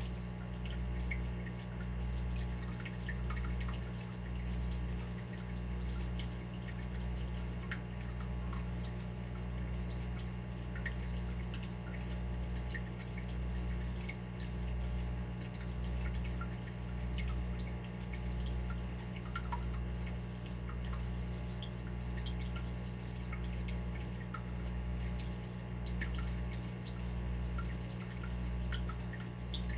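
Water dripping, with many small plinks over a low steady rumble of water that swells and fades about every second and a half.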